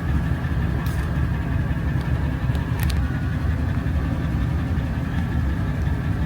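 Van cabin while driving: steady low engine and road noise, with a couple of faint ticks.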